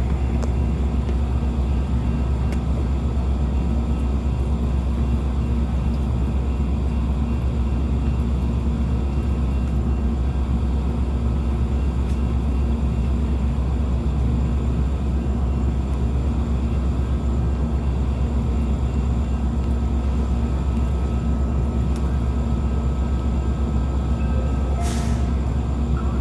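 Metra commuter train's diesel locomotive standing and idling, a steady low rumble with a constant hum. A brief hiss of air near the end.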